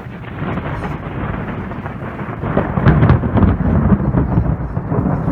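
Rolling thunder rumbling, growing louder about two and a half seconds in.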